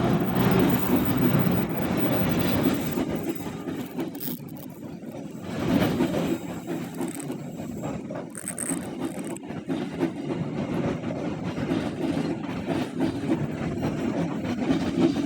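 Passenger train rolling past on the rails: a steady rumble of wheels over track, swelling about six seconds in, with faint high wheel squeals around the middle.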